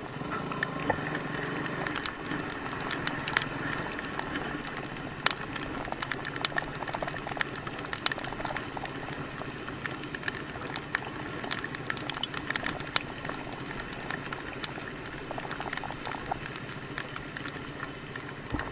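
Rain pattering, with many irregular sharp drop ticks close by over a steady low hum.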